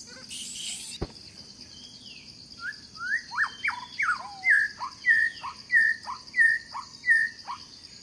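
A bird singing a run of clear whistled notes, about two a second, most of them sliding steeply down in pitch and growing louder, over a steady high drone.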